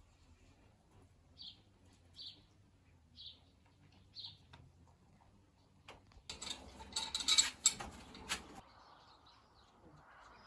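A small bird gives short single high chirps about once a second. Past the middle comes a louder clattering and rustling of about two seconds, full of sharp clicks.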